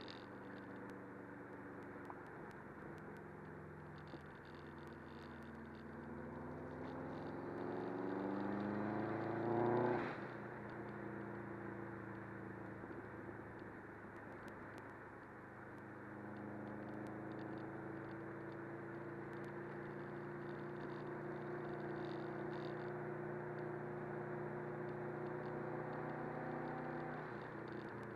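Subaru WRX's turbocharged flat-four engine heard from inside the cabin under road noise. The revs climb for a few seconds, fall sharply about ten seconds in, then hold steady and rise gently again before dropping near the end.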